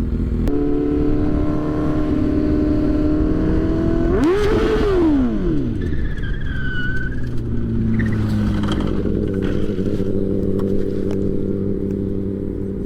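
Kawasaki motorcycle engine running, its pitch climbing sharply about four seconds in and then dropping steeply as the rear wheel locks up when the clutch is let out, a gearbox fault the rider hasn't yet diagnosed. A brief high squeal follows, then the engine settles into a steadier, lower note.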